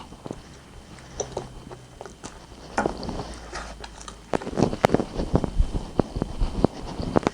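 Close-miked eating of rotisserie chicken: wet chewing clicks and lip smacks, sparse at first and coming thick and fast from about four seconds in.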